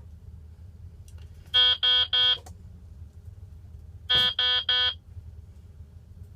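Truck cab warning chime: three quick, identical electronic beeps, repeated twice about two and a half seconds apart, over a low steady hum.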